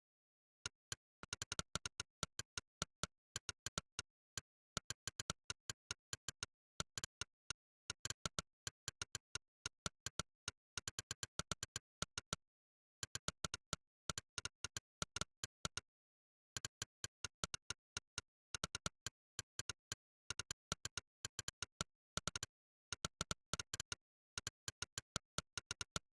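Monkeytype's 'click' typing sound effect, one short click per keystroke, in fast irregular runs of several clicks a second during rapid typing, broken by a few brief pauses.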